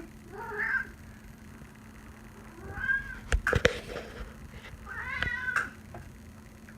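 A 17-year-old seal point Siamese cat meowing three times: short calls about a second in, around three seconds in and around five seconds in. A few sharp knocks come between the second and third meows.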